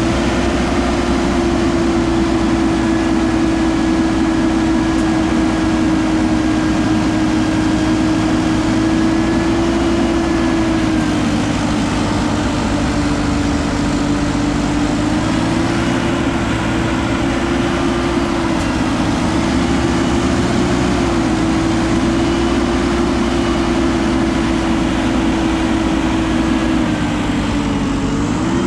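Heavy machine's diesel engine running steadily under load, its speed dipping and rising slightly a few times, with a short dip and recovery near the end.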